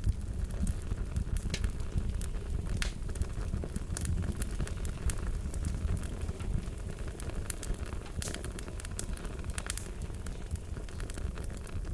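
Wood fire crackling: a steady low rumble with frequent sharp pops at irregular intervals.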